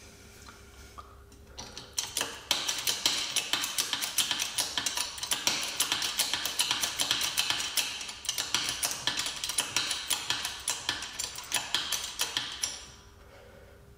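Hand ratchet clicking rapidly, several clicks a second, as it is worked back and forth. It starts about two seconds in and stops about a second before the end.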